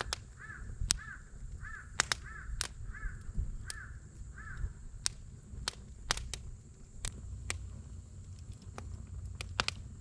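Wood campfire crackling, with irregular sharp pops over a low steady rumble. In the first half a bird calls over and over, about two short calls a second, and stops about halfway through.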